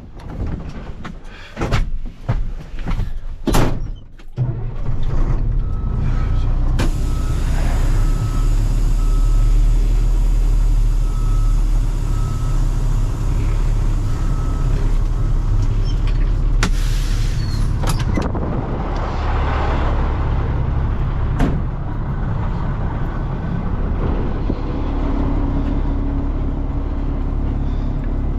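A few knocks and clanks, then a truck engine starts about four seconds in and runs steadily. A soft beep repeats for several seconds after it starts.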